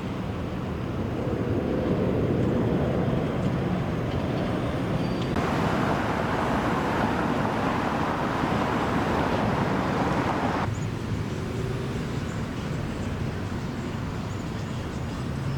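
Road traffic noise: a steady low rumble of passing vehicles, with a louder rushing sound that comes in about five seconds in and cuts off sharply about six seconds later.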